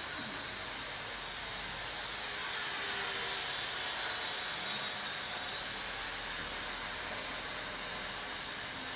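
Electric motors and propellers of a twin-motor indoor RC warbird model giving a steady high whine over a hiss. The whine swells slightly a few seconds in and eases off.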